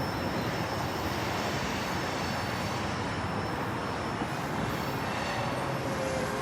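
Freight train rolling past: a steady rumble and wheel noise, with a faint high wheel squeal that fades out over the first few seconds.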